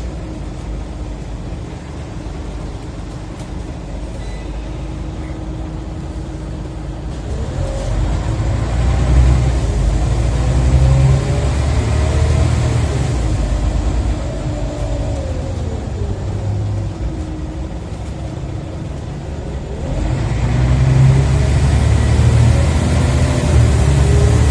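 Scania OmniCity single-deck bus engine and ZF automatic gearbox heard from on board, accelerating hard: about 7 s in it grows louder, with a whine rising and falling in pitch through the gear changes. It eases off, then pulls hard again about 20 s in.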